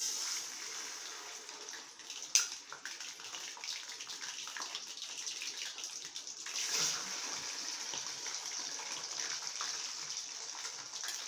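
Mutton brain pieces, cleaned and coated with salt and turmeric, sizzling in hot oil in a steel kadai: a steady high hiss that flares up twice, about two and a half and seven seconds in, as more pieces go into the oil.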